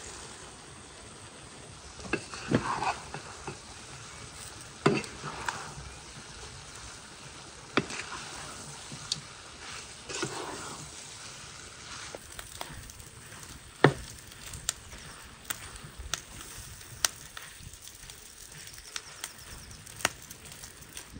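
Food sizzling steadily as it fries in a pan, with a utensil scraping through it now and then and a few sharp knocks against the pan.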